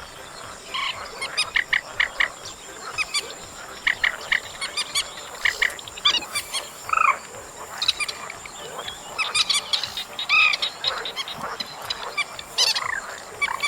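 Trích ré bird-call lure recording: clusters of short, rapid, harsh call notes, with a few down-slurred notes mixed in, over a steady thin high whine.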